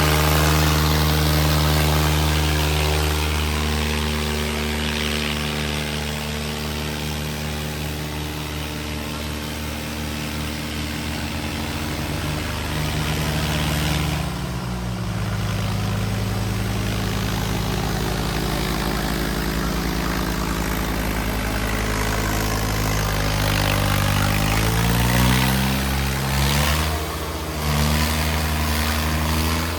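Tractor diesel engines running hard under heavy pulling load in a tug-of-war. The engine note holds steady, drops in pitch about halfway through, then rises again near the end.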